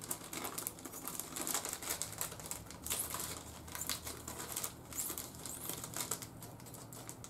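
Scissors snipping through a thin plastic sheet, with the plastic crinkling as it is handled: a quick irregular run of small clicks and rustles.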